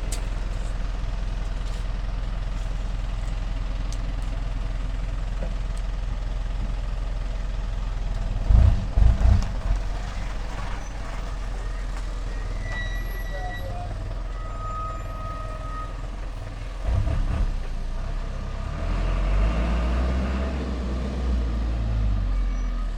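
Truck engine running steadily, with heavy low thumps about nine seconds in and again near seventeen seconds, and the engine working harder near the end.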